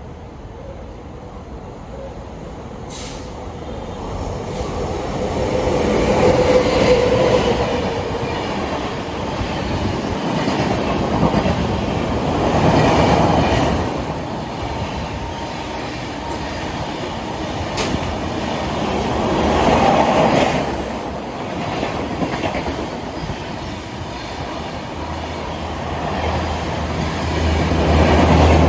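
Express passenger train hauled by a WAP-7 electric locomotive passing at speed: steady rolling and rattling of the wheels over the track, swelling and easing in waves as the coaches go by. A deep hum grows louder near the end.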